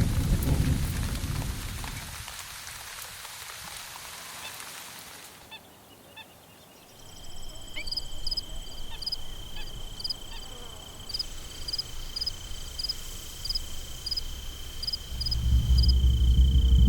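Rain and a low rumble fading out, then a steady high-pitched whine with short high chirps repeating about twice a second. A loud low sound swells in near the end.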